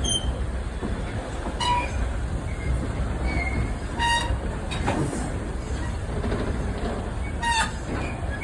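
Train rolling along the track: a steady low rumble with three brief high-pitched squeals.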